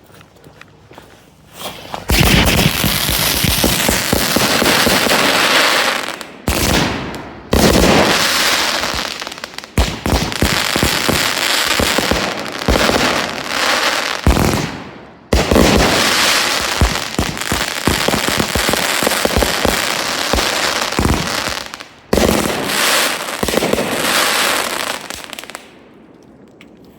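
Sunwing Pop'N Crackle 27-shot 500-gram consumer firework cakes firing: a dense, continuous crackle full of sharp pops and thumping shots. It starts about two seconds in, drops off briefly a few times, and stops shortly before the end.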